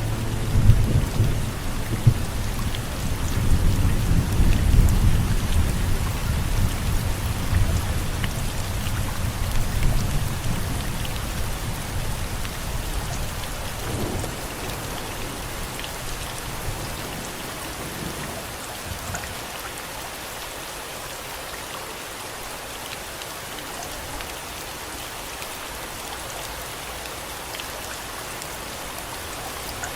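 Heavy rain with rolling thunder; the deep thunder rumble is loudest over the first ten seconds and dies away by about twenty seconds in, leaving steady rain.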